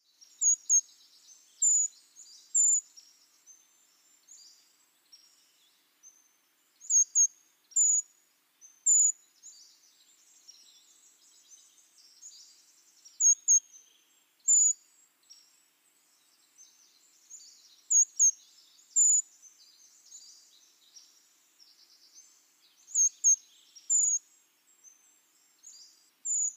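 Brown creeper calls: short, thin, very high notes in groups of two or three, repeated about every five seconds, over fainter high twittering and chirping.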